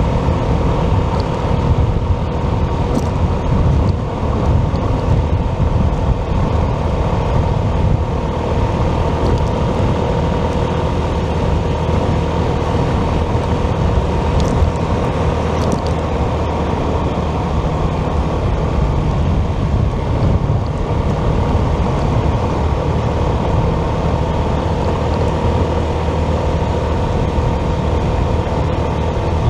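Motorcycle riding at a steady cruise: steady engine and road noise with a constant whine over it.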